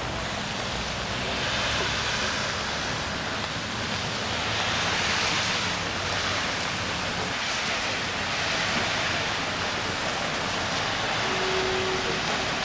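Rain falling, a steady hiss that swells and eases every few seconds.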